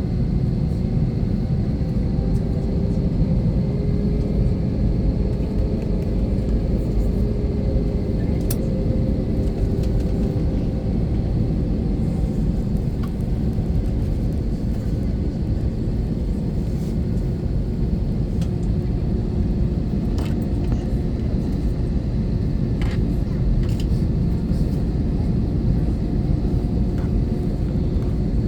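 Steady low rumble of an Airbus A321-231 passenger cabin before takeoff, from its engines and cabin air, with a faint wavering hum and a few small clicks.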